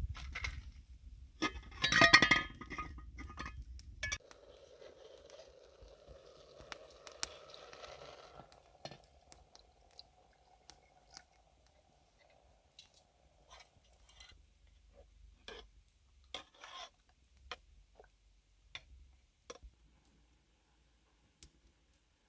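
Kitchen work with dishes and utensils: scattered clinks and knocks, a louder clatter about two seconds in, then a steadier hiss for several seconds before the sounds thin out to occasional clicks.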